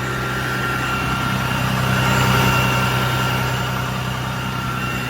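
A 2016 Ram 5500 service truck running at idle with its PTO engaged, a steady engine hum with a faint steady whine above it, growing slightly louder midway then easing off.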